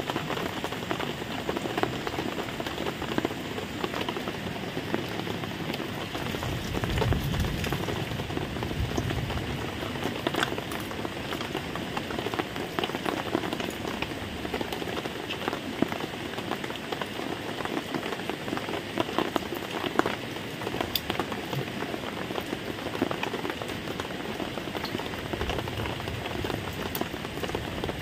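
Steady rain falling, a continuous patter with many scattered sharp drop hits and a brief low rumble about seven seconds in.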